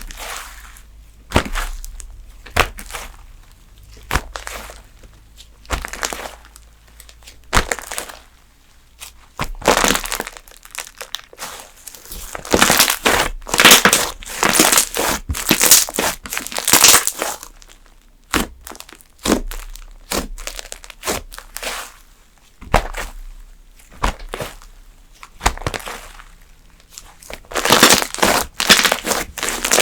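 Fluffy slime (Slime Japan's Marshmallow Fireside) being squished, pressed and stretched by hand, with many sharp clicks and pops and longer runs of crackling in the middle and near the end.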